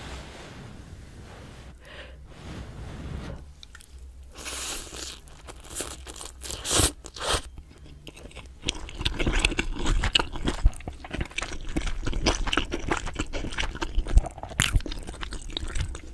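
Close-miked eating with crunching and chewing. It starts with a few separate loud bites about midway, then runs into dense, rapid crunchy chewing through the second half.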